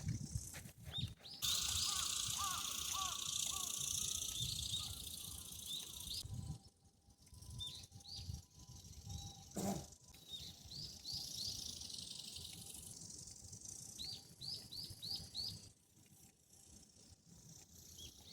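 Small wild birds chirping outdoors in short falling notes, some in quick runs of four or five, over a steady outdoor hiss that fades after about six seconds. A single sharp knock comes about ten seconds in.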